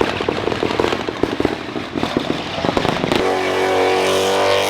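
A car's exhaust crackling and popping rapidly over the engine's rumble. About three seconds in, it gives way abruptly to a steady engine note held at one pitch.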